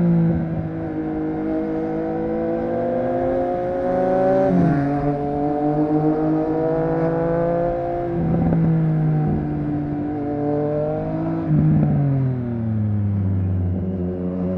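Triumph Street Triple RS three-cylinder engine running through a Yoshimura aftermarket exhaust under way. The engine note holds steady for a few seconds at a time and drops in pitch in steps several times, with one rise in between.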